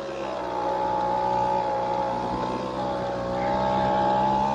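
Honda Vision moped's small scooter engine running at high, steady revs while labouring under load off-road, close to stalling. Its pitch holds nearly level, with a slight dip and rise near the end.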